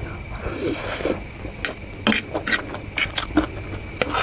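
Close-miked chewing of a mouthful of egg chow mein noodles: wet mouth sounds with many short, sharp clicks and smacks.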